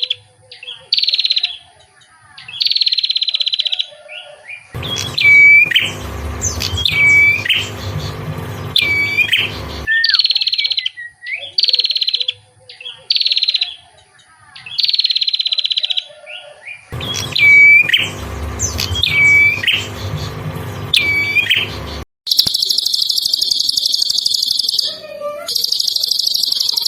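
Recorded small songbird calls: short buzzy calls falling in pitch, repeated about once a second, alternating with stretches of hooked whistled notes over a low background rumble; near the end a long high buzzing trill sets in.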